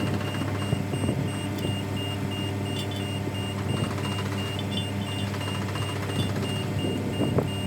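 Tracked excavator's diesel engine running steadily, with its high travel alarm beeping rapidly and a few light knocks.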